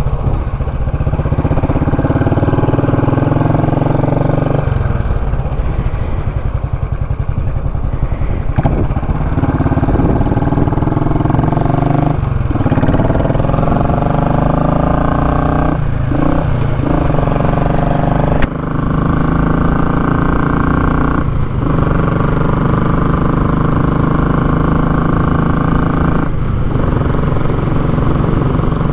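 Royal Enfield Classic 500 single-cylinder engine running through a short, open muffler while riding. It holds a steady note, turns rougher for a few seconds early on, and has brief dips several times.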